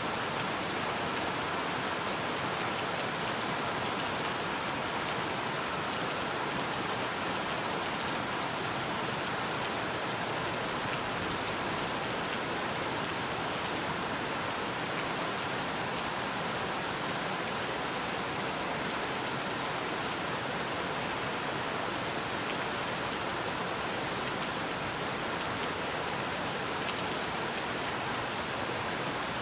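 Steady rain falling: an even hiss of many drops that does not change in strength.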